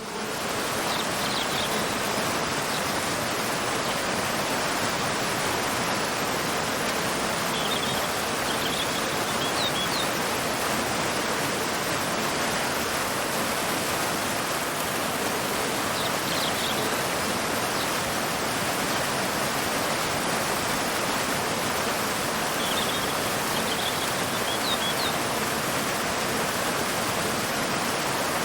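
Waterfall and river water rushing steadily, with a few faint clusters of short bird chirps now and then.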